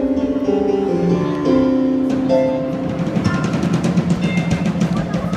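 Live instrumental of piano and percussion: held piano notes, then from about three seconds in a fast roll of drum strikes over low piano notes.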